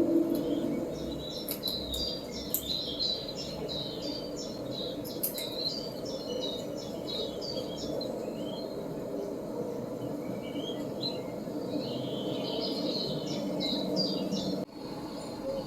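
A bird calling: a quick run of short, high, repeated calls, about three a second, for several seconds, then looser scattered calls, over a steady low rumble. The sound breaks off abruptly near the end.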